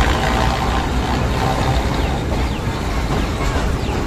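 Green Line Express passenger train running across a steel truss bridge, heard from the carriage window: a steady, loud rumble of the wheels and the coach in motion.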